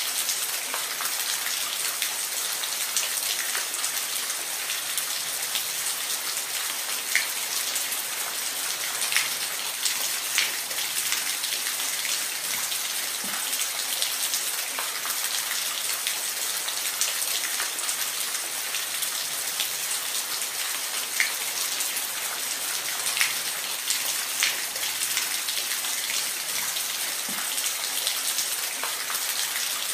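Steady rush of falling water: a continuous bright hiss with scattered small splashes and drips throughout.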